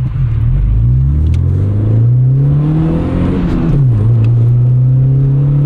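VW Mk3 Golf estate's engine and new exhaust accelerating hard. The engine note climbs steadily, falls sharply at a gear change about three and a half seconds in, then pulls again in the next gear.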